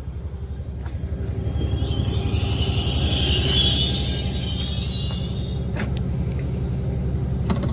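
Commuter train running by: a steady low drone, with a high metallic wheel squeal that swells about two seconds in and fades by four, and a few sharp clicks.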